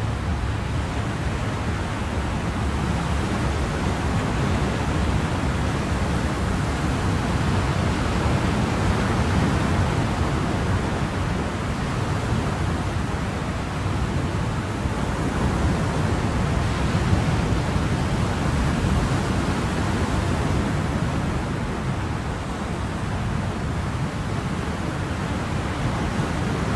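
Ocean surf: a continuous wash of waves with slow, gentle rises and falls in level.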